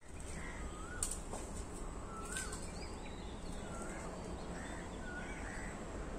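Birds calling in the trees: short whistled notes repeating every second or so over steady low background noise.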